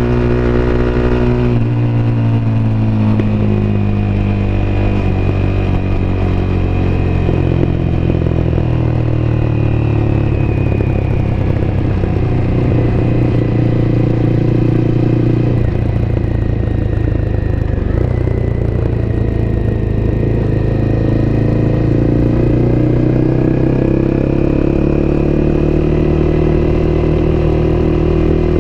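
Honda CBR250R's single-cylinder engine heard on board while riding: the engine note falls steadily for about fourteen seconds after a sudden change near the start, then rises steadily again as the bike accelerates.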